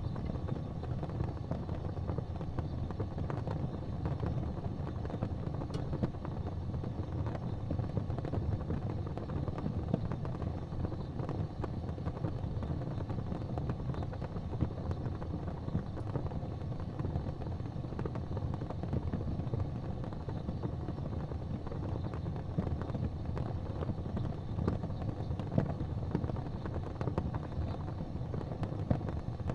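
Wood fire burning in a fireplace: a steady low roar of flames with frequent small crackles and an occasional sharper pop.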